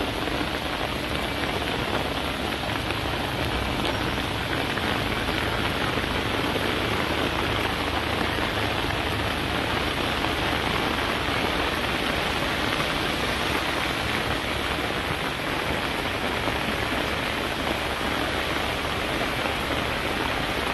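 Steady, heavy rain pouring down in a tropical storm, an even hiss of rain on surfaces that never lets up.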